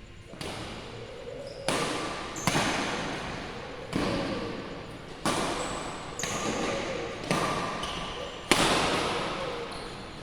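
Badminton rackets striking a shuttlecock in a rally: about eight sharp hits, roughly one a second, each ringing out in the hall's echo.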